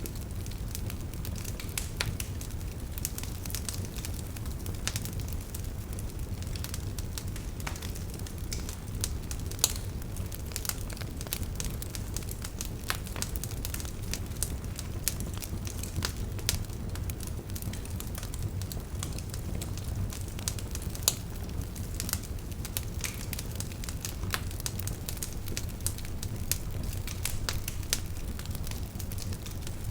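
Wood fire burning with a steady low rumble and frequent sharp crackles and pops scattered irregularly throughout.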